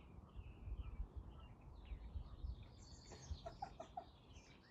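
Birds chirping and twittering in the background, with three short, lower calls a little past the middle, over a faint low rumble.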